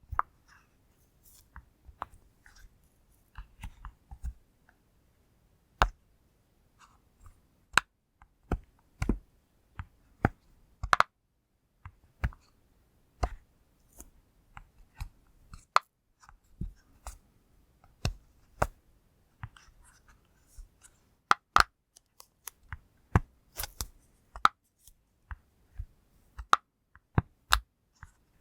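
Silicone push-pop fidget toy bubbles being pressed: irregular sharp pops, about one or two a second, some in quick pairs.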